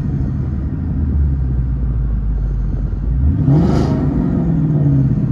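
Ford Mustang Shelby Terlingua's V8 idling, then blipped once about three seconds in: the revs rise quickly and drop straight back to idle. Heard from inside the cabin.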